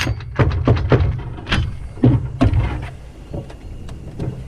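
A run of irregular sharp metal knocks and clunks, about eight in the first two and a half seconds and then a few fainter ones, from tools working on the side-by-side's wheel hub.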